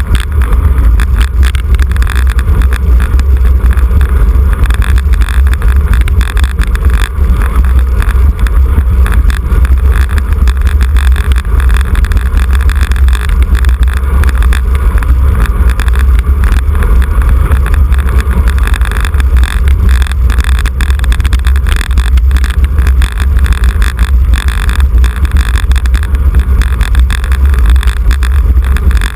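Steady, loud low rumble of wind buffeting the microphone of a camera riding on a road racing bicycle, with rushing noise on top.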